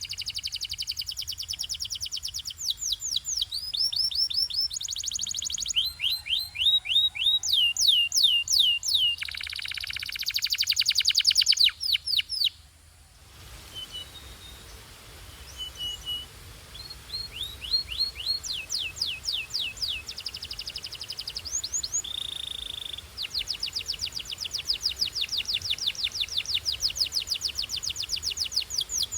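Canary singing: fast trills of repeated, sharply falling whistled notes, with a dense rolling trill partway through. The song breaks off briefly a little before halfway, then picks up again with more long trills.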